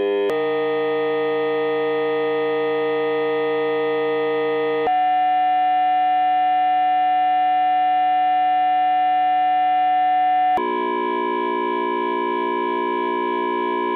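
Steady electronic tones from a pair of audio oscillators, several pitches sounding together, jumping abruptly to a new pitch combination three times as the settings are changed.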